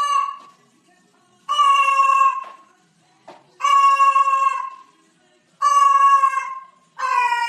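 A cat meowing over and over in long, drawn-out calls, each about a second long and about two seconds apart. Each call holds a steady pitch and dips at the end.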